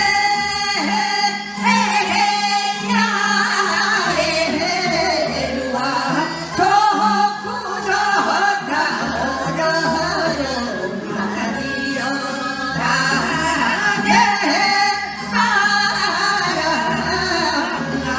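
Korean Gyeonggi folk song (Gyeonggi sori) sung with long wavering, sliding held notes over instrumental accompaniment.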